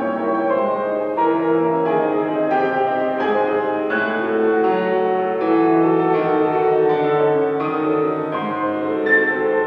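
Solo piano playing classical music, a continuous flow of sustained chords and moving notes.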